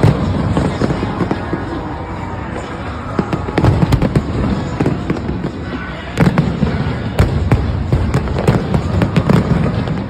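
New Year fireworks display: rapid volleys of bangs and crackles over a low rumble of booms, coming thickest about three and a half seconds in and again from about six seconds.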